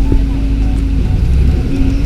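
Bus engine running with a steady low rumble from the moving bus, music playing over it.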